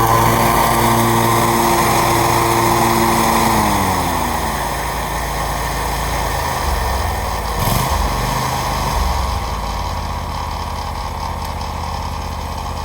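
New Briggs & Stratton engine on a Scag mower running fast, then throttled down about four seconds in, its pitch sliding lower and settling into a steady slower run. A short clunk comes about eight seconds in.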